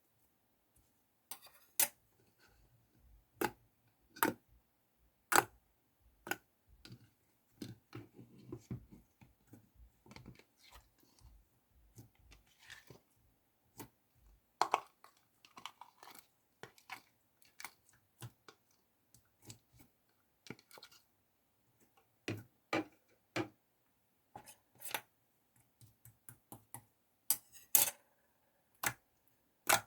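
Clear slime made from soothing gel being pressed and squished by hand: irregular sharp clicks and pops, some in quick pairs, with softer sticky squelching between them.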